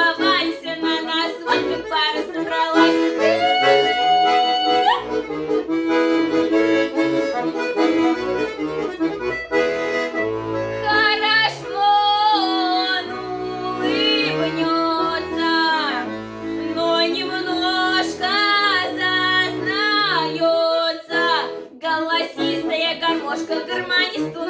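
Accordion playing a lively instrumental interlude of a Russian folk stradaniya tune: a running melody over held chords and short bass notes.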